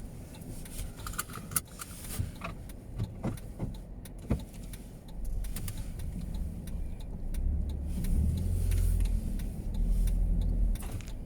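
Strong snowstorm wind buffeting the microphone as a low, gusting rumble that swells about halfway through and is heaviest near the end, with a few light handling knocks early on.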